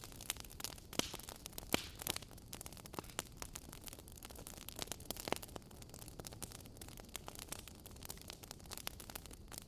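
Wood fire crackling in a fireplace: a steady low hiss with irregular sharp pops and snaps, a few louder ones about a second and two seconds in.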